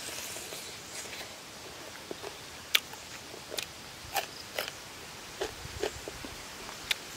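Chewing and smacking mouth sounds of a person eating roasted chicken with her fingers: an irregular series of short clicks and smacks, the sharpest about three seconds in.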